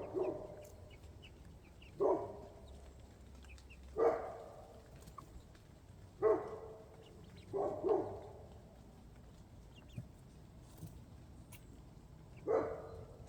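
Domestic hens calling, a short drawn-out cluck about every two seconds, six times over.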